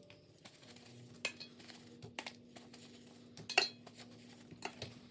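Dishes and small containers clinking and knocking on a kitchen counter as they are handled, with a few separate clinks, the loudest about three and a half seconds in.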